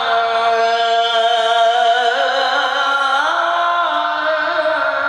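Male qori's voice in melodic Quran recitation, holding one long drawn-out note. The pitch steps up about two seconds in and again a second later, with small ornamental turns.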